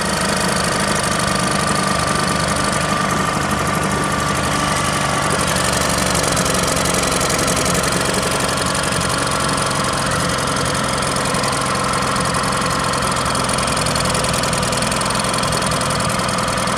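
A small petrol boat engine running steadily at tick over, throttled right down as the boat comes in to dock.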